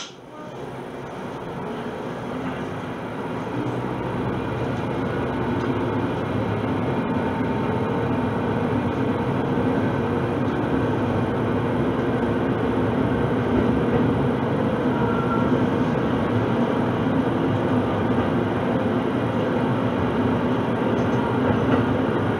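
Diesel railcar of the Shimabara Railway pulling away from a station: a sharp click at the start, then engine and wheel-on-rail noise growing over the first several seconds as it picks up speed, and settling to a steady run.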